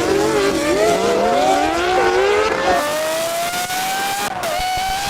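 Several supercar engines accelerating hard at once, their notes climbing in pitch with short dips at the gear changes; after a couple of seconds one engine's rising note stands out.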